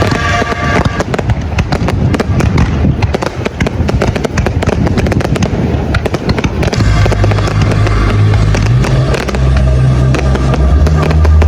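Fireworks going off in rapid crackling bangs. Music with heavy bass notes comes in about seven seconds in.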